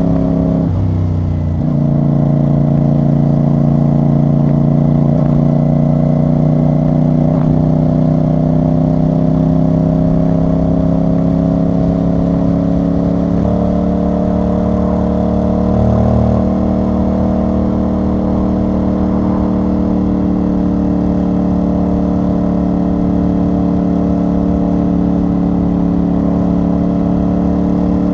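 CFMoto CL-C 450 motorcycle's parallel-twin engine and exhaust on the move. There is a gear change about a second in, then a steady run with the pitch slowly rising, and the engine note changes again around halfway.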